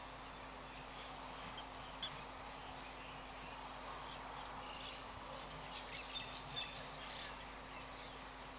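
Faint calls of wild birds: a single sharp chirp about two seconds in and a short run of high chirps around six seconds in, over steady background hiss and a low hum.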